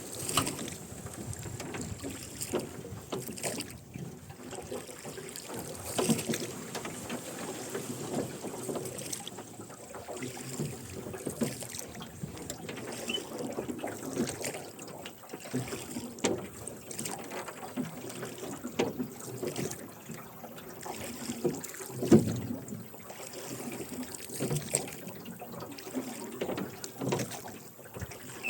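Rowboat being rowed: oarlocks creaking and oars splashing and dripping in the water, with scattered knocks, the loudest about twenty-two seconds in.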